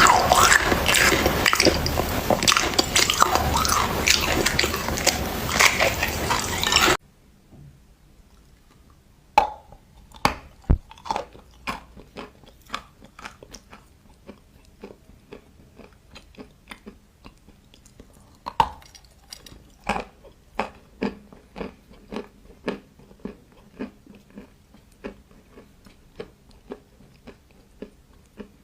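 Edible clay being bitten and crunched: a run of separate sharp crunches at irregular spacing, one to three a second. Before them, a loud dense rushing noise cuts off suddenly about seven seconds in.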